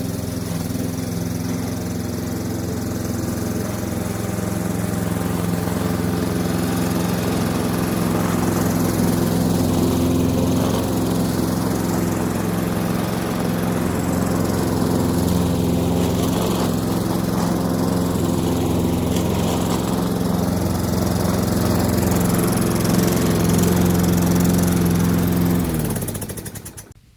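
Petrol lawn mower engine running steadily at a constant speed, then winding down and stopping near the end.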